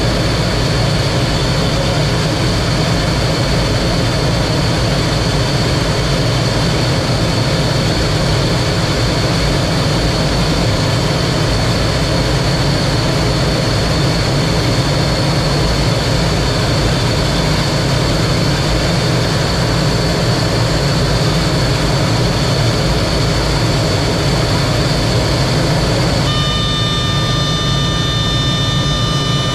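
T-33 jet trainer's turbojet engine running steadily in flight, heard from the cockpit as a loud, even roar with a high whine riding on top. Near the end a cluster of steady tones sounds for about three seconds.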